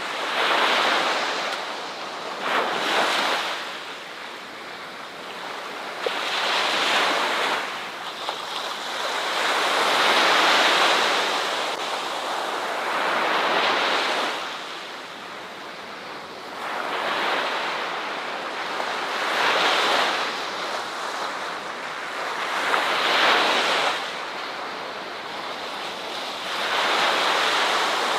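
Ocean waves breaking and washing on a beach, surges swelling and fading every few seconds.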